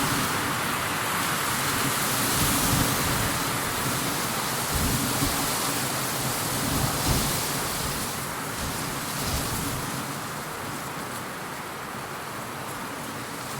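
Steady hiss of rain, with a low rumble underneath that fades away about ten seconds in.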